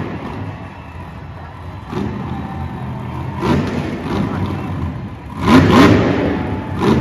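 Monster truck's supercharged V8 engine revving in repeated bursts, each rev rising and falling in pitch, the loudest one about five and a half seconds in.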